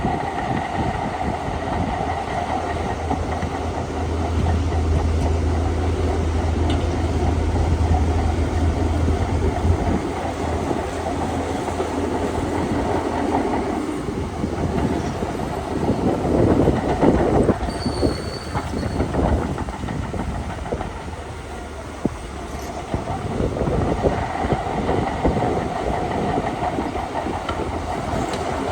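Crawler bulldozer working: engine running under load with its steel tracks clanking and a steady whine. The engine drone deepens and strengthens a few seconds in, and a louder noisy stretch comes about halfway through.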